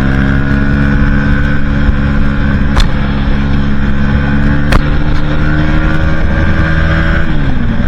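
Aprilia Tuono 125's single-cylinder four-stroke engine through a Leo Vince exhaust with no catalytic converter, running at steady high revs that slowly climb, then fall near the end. Two sharp clicks come partway through.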